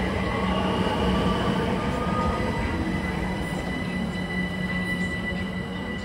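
Passenger train running on rails, with steady whining tones over a rumble of wheels. The sound eases slightly, and near the end another whine begins to rise in pitch.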